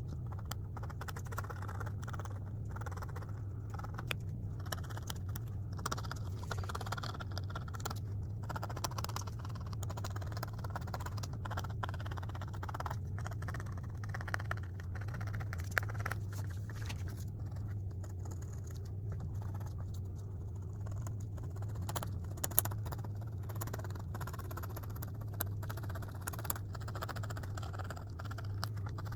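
Scratchy, irregular scraping of a drawing toy being worked, with a few sharp clicks, over a steady low hum.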